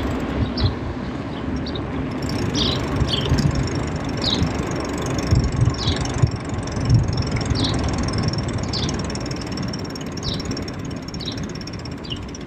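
Low rumble of wind on the microphone and tyres rolling while riding a bicycle, with a short high chirp repeating about once a second.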